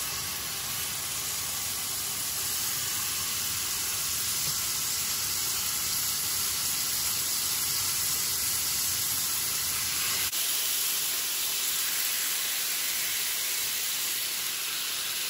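Marinated chicken kebab skewers frying on a hot oiled tawa (flat griddle), a steady sizzling hiss. A low rumble under the sizzle cuts off about ten seconds in.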